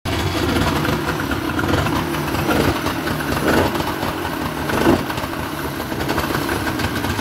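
A small engine idling steadily, with a couple of short rises in pitch in the middle.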